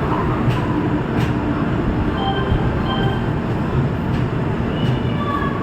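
Train running, a loud steady rumble with a few sharp clicks.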